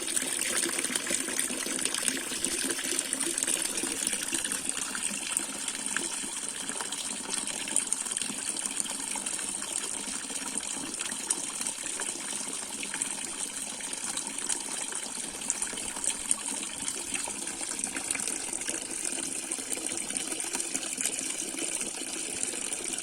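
Steady rush of running water with a high hiss and a scatter of small splashing ticks.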